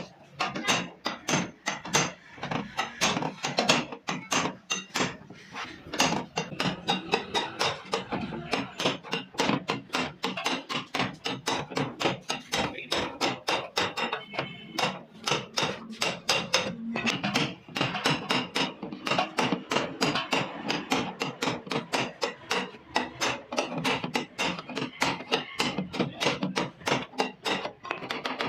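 Hammer tapping out dents in a Honda Civic's sheet-metal body panel: a long, fairly even run of sharp strikes at about four a second, some harder than others.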